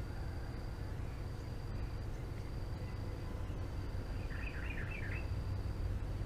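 Outdoor background noise with a steady low rumble. An insect's thin high trill repeats in long pulses about once a second, and a bird gives a quick run of about four chirps about four seconds in.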